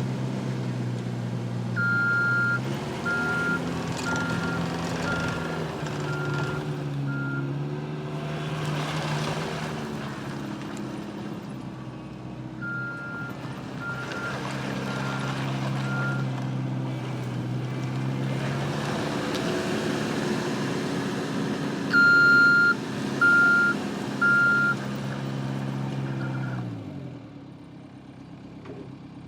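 Yanmar T210 tracked skid steer's 71 hp diesel engine running, its speed rising and falling, with the backup alarm beeping about once a second in three spells. Near the end the engine note drops away and the sound gets quieter.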